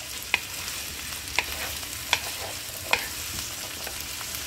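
Chopped okra sizzling in hot oil in a nonstick wok over full heat, dry-fried with no water added, with a steady frying hiss. A wooden spatula turns it over, knocking against the pan four times at about even spacing.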